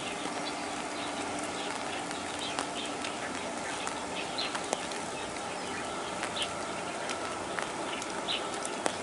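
Steady outdoor noise with short, high bird chirps every second or so and a few scattered sharp ticks.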